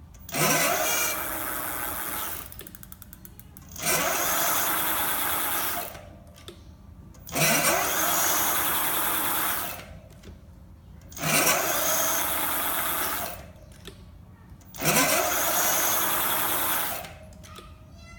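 Electric bike hub motor spun up five times in bursts about three and a half seconds apart. Each burst opens with a rising whine and then carries a harsh high squeal while the motor accelerates, the weird squealing that the owner is trying to track down.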